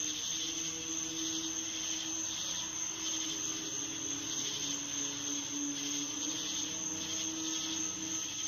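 A low, steady droning hum of unidentified origin, of the kind reported as a 'strange sound in the sky', its pitch wavering slightly over a constant high hiss.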